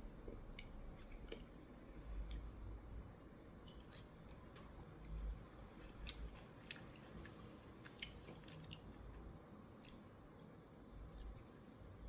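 Someone chewing a mouthful of instant ramen noodles: scattered wet mouth clicks and smacks, with a short hiss about seven seconds in.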